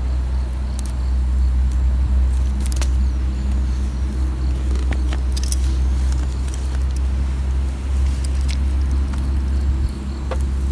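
Wood campfire crackling, with scattered sharp pops and snaps a few times over several seconds, over a steady low rumble.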